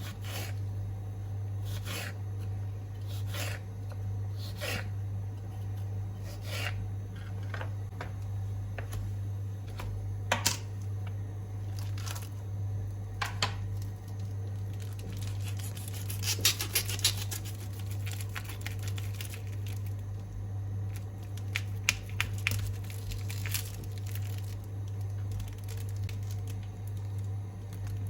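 Hands handling and tearing crinkly packaging, a string of short rustles and clicks with a quick burst of crinkling about halfway through, over a steady low hum.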